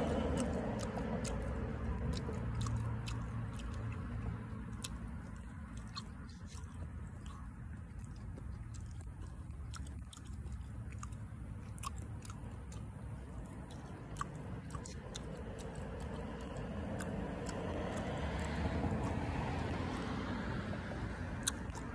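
A person chewing cactus fruit close to the microphone, with many small scattered clicks and crunches from its rock-hard seeds.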